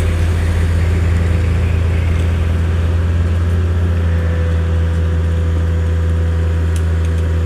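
Large diesel engine running steadily at a constant low pitch, with a thin steady tone above it.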